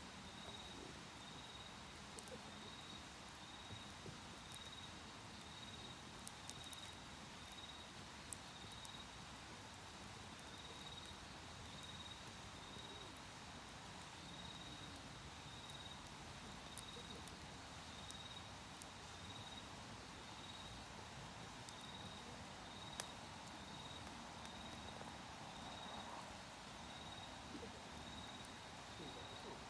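Campfire crackling faintly with scattered sharp pops, under the steady, evenly repeated high chirping of an autumn insect.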